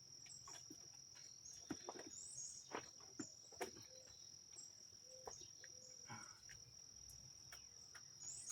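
Faint, steady high-pitched cricket chirring, with a few light scattered clicks and taps.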